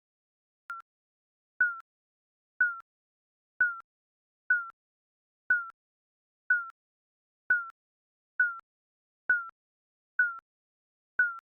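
Digital countdown-timer beep repeating about once a second, each a short tone that dips slightly in pitch; one beep about a second in is quieter.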